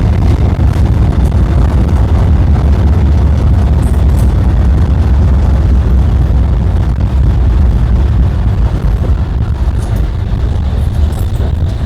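An older, modernized tram running, heard from on board: a steady, heavy low rumble that eases slightly near the end.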